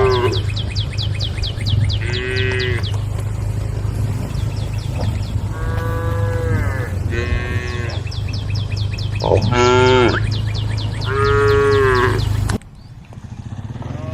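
Cattle mooing, about six separate calls one after another, the loudest near the end. Under the calls runs a steady low hum with a fast, high ticking, and both cut off suddenly near the end.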